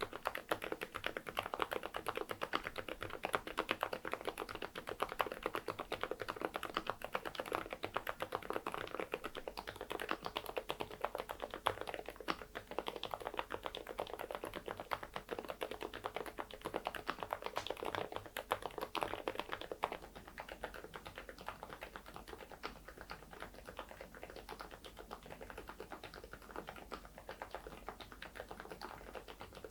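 Steady fast typing on a mechanical keyboard fitted with thick PBT keycaps, a dense run of key clacks that gets a little lighter in the second half.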